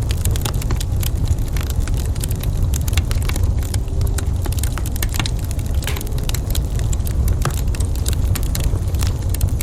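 Wood fire burning in a fireplace, with frequent sharp crackles and pops over a steady low rumble.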